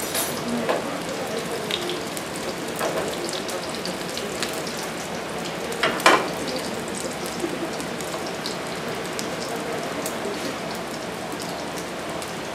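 Meatballs frying in oil in a nonstick pan over a low gas flame, a steady crackling sizzle. A few knocks of a utensil against the pan stand out, the loudest about six seconds in.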